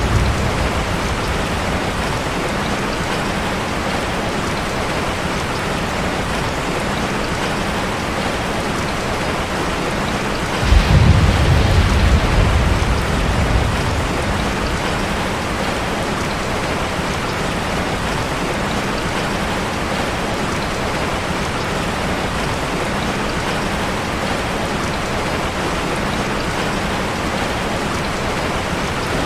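Steady heavy rain drumming on a metal roof. About eleven seconds in, a low rumble swells up suddenly and fades over a few seconds.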